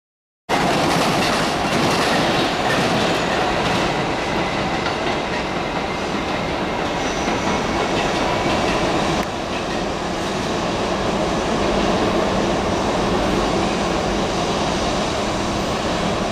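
Electric commuter train running over the rails, its wheels clacking over rail joints, with some wheel squeal on the curved track.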